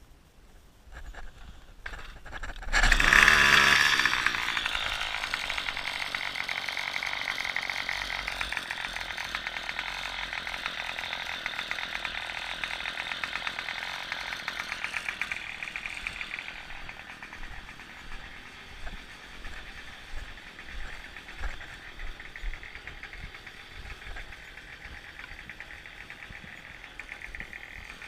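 Small gasoline engine starting up about three seconds in, then running with a steady high buzz. After the midpoint it drops to a lower level with intermittent surges.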